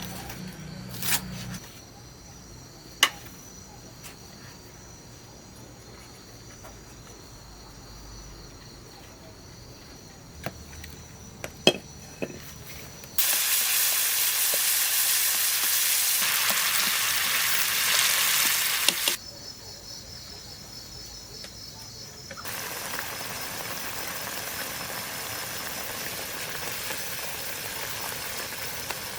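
Food sizzling in hot oil in a pan. It starts suddenly and loudly about halfway in, stops abruptly six seconds later, then resumes more quietly near the end. A few sharp knocks and clicks come before it.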